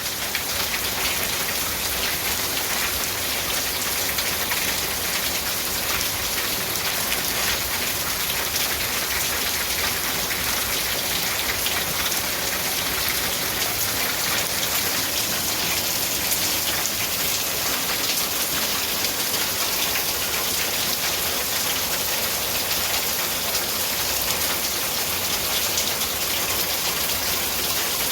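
Steady rain falling, a dense even patter of drops that does not let up.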